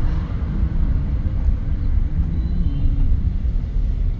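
A car's engine and road noise heard from inside the cabin: a steady low rumble, with the engine note wavering up and down slightly.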